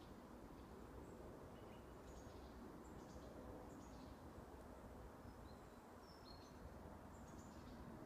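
Faint, scattered short high chirps of small songbirds, a few seconds apart, over a steady low background hiss.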